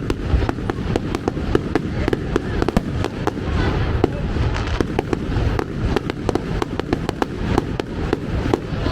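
Fireworks display: a fast, irregular run of bangs and crackling pops, several a second, over a continuous low rumble of explosions.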